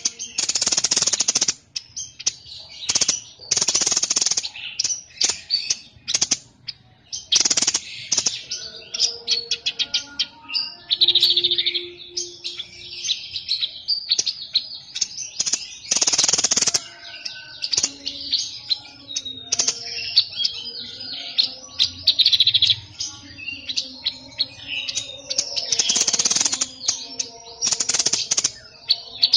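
Caged songbird known to Indonesian bird keepers as the 'sniper bird', singing a long varied song. Loud harsh rasping bursts about a second long recur every few seconds, between strings of high chirps and twitters.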